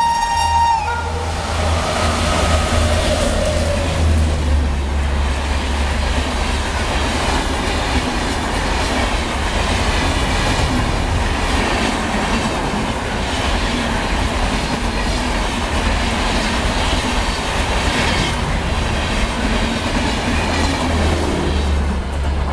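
A train horn sounds and cuts off in the first second. Then an express passenger train passes at speed, with a loud steady rumble and clickety-clack of wheels as the coaches roll by.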